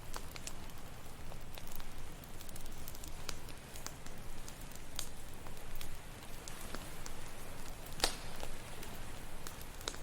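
Campfire crackling with irregular sharp pops, one louder snap about eight seconds in, over a steady wash of ocean surf.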